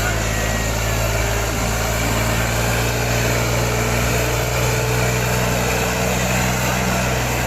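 Sonalika 35 tractor's diesel engine running steadily under load as it drags two harrows, a constant low hum with no let-up.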